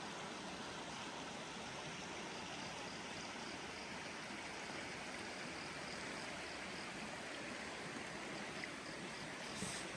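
River water running steadily. A faint, high, regular chirping comes in partway through, and there is a short knock near the end.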